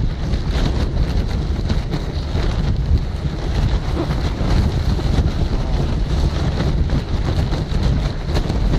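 Strong, gusty wind buffeting the microphone: a steady, heavy low rumble of wind noise with no letup.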